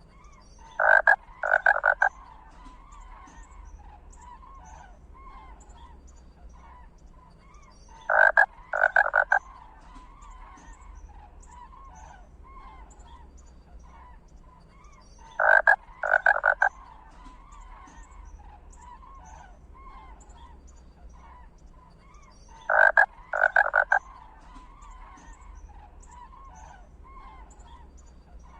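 A loud, rasping animal call in two or three quick croaks, repeating at even intervals about seven seconds apart, over a steady background of faint chirping.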